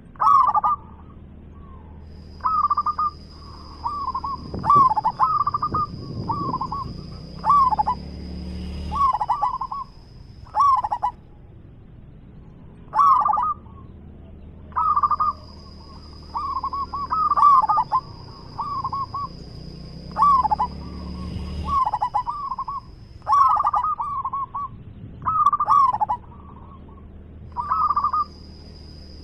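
Zebra dove (perkutut) cooing over and over: clusters of short rolling coos, one phrase every second or so, with brief pauses between runs.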